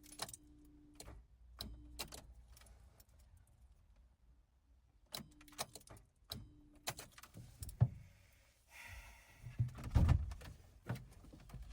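A Peugeot 205 GTI failing to start: clicks and knocks from the key and controls, four short steady hums, and a brief low rumble about nine to ten seconds in, with no engine catching and running.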